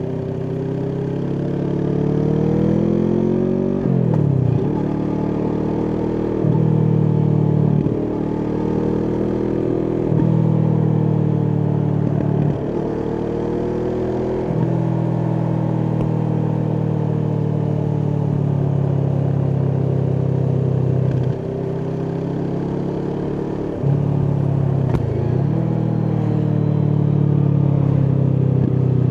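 Kawasaki Vulcan S's 649 cc parallel-twin engine through an Arrow aftermarket exhaust, pulling through the gears. The pitch climbs and then drops sharply at each gear change, about eight times, with a steadier cruising stretch in the middle.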